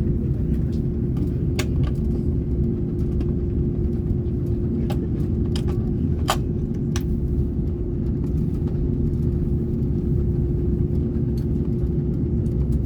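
Cabin noise inside an Airbus A330neo on the ground before take-off: the Rolls-Royce Trent 7000 engines and cabin air make a steady low rumble with a steady hum, with a few light clicks and rattles from the cabin fittings.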